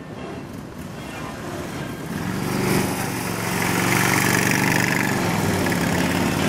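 Police motorcycle engine running at low speed on a slow-riding course, growing louder from about two seconds in as it comes closer, then holding steady.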